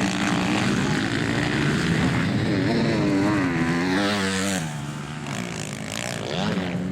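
Motocross dirt bike engines racing, revving up and down as riders work the throttle, with pitch rising and falling as bikes pass; it dips a little in loudness about five seconds in.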